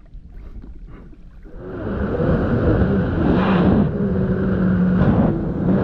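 Kawasaki X2 jet ski's 650 two-stroke engine running, getting much louder about a second and a half in as it picks up speed, with rushing water and wind noise over a steady engine tone.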